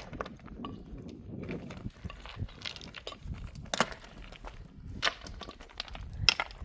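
Irregular knocks and crunching clicks, about one a second, over a low rumble, as of hands working with wood or stone.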